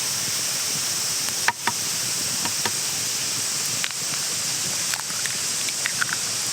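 Steady sizzling hiss of food frying in a pan over a campfire, with scattered sharp pops and clicks, the loudest about a second and a half in.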